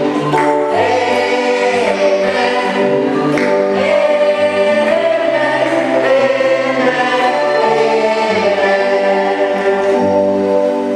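Congregation singing a hymn together, many voices in sustained notes over a steady bass line that moves in steps.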